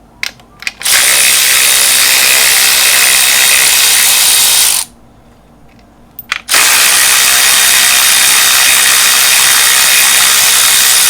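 A power tool on the crankshaft, run in two long bursts of several seconds with a pause between, each started by a few short blips, spinning the LS V8 over to check that it turns freely and is not seized.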